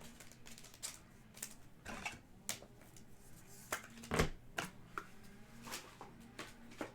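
Trading cards being handled and sorted by hand: irregular light clicks and slides of card stock, roughly one or two a second, with a louder knock about four seconds in.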